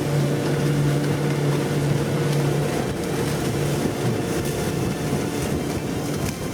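Yamaha F90C four-stroke outboard motor running at speed, a steady drone over wind and water noise; the engine tone fades back about three to four seconds in, leaving mostly wind and hull noise.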